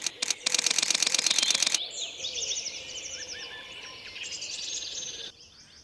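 A rapid burst of camera shutter clicks, fired in quick succession for about a second, followed by a small bird singing a series of high, quick, downward-sweeping notes.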